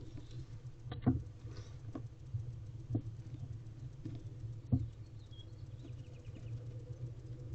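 Barn owl swatting at something on the owl box floor: a handful of soft knocks and scratches, the strongest about a second in and again near five seconds in, over a steady low hum.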